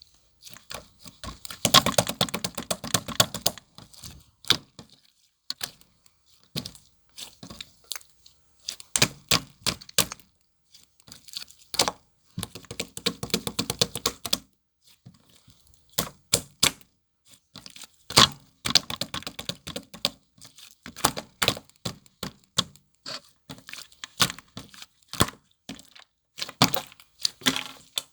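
Irregular clusters of sharp clicks, taps and crackles, with short dead-quiet gaps between them.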